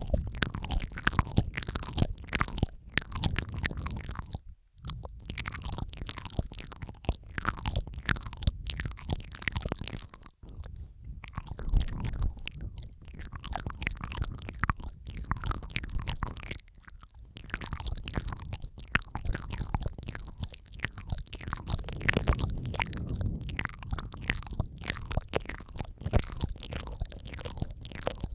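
Layered ASMR mouth sounds close on the microphone: a steady stream of irregular wet clicks, smacks and licking sounds, pausing briefly about four, ten and seventeen seconds in.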